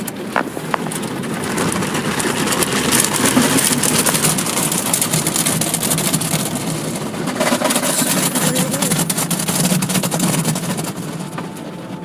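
Car wash machinery spraying and washing a car: a loud, steady rush of water spray with rapid pattering hits. It builds over the first few seconds and eases near the end.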